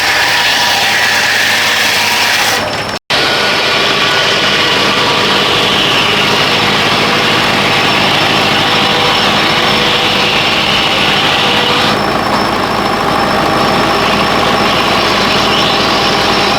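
Engine running steadily at a loud, even pace, with a brief break about three seconds in where the sound cuts out and picks up again.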